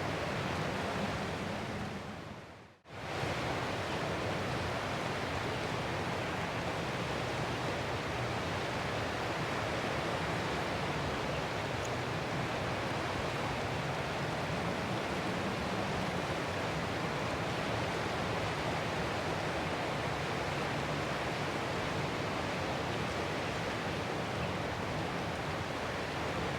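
Ocean surf washing onto shore as a steady, dense rush of noise. About two seconds in it fades down almost to silence, then comes straight back up.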